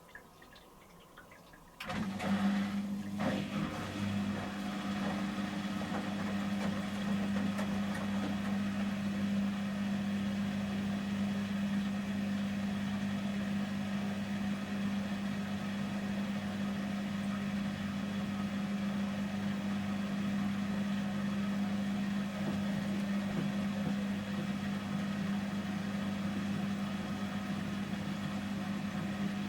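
Samsung Series 5+ washing machine during its 800 rpm intermediate spin stage: about two seconds in, a steady mechanical hum switches on abruptly, with a few brief rattles at the start, and then runs on at an even pitch.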